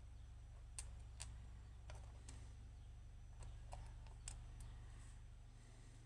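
Faint, scattered small clicks, about eight in a few seconds and irregularly spaced, from lock pins, springs and tools being handled while a pin-tumbler lock is taken apart. A low steady hum lies underneath.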